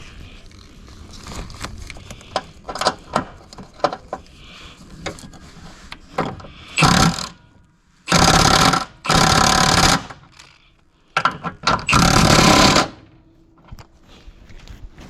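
Light clicks and knocks of tools on metal, then four short bursts of an impact wrench, each about a second long, running bolts in.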